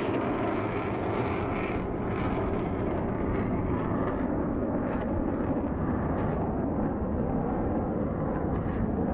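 Single-engine JF-17 Thunder fighter jet, its RD-93 turbofan giving a steady, heavy roar across the air show ground.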